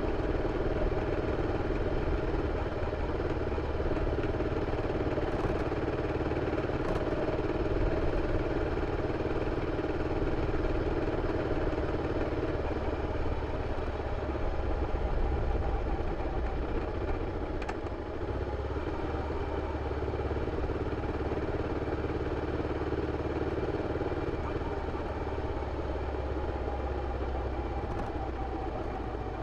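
BMW F 650 CS Scarver's single-cylinder engine running steadily through its original exhaust, with a slight shift in tone about two-thirds of the way through.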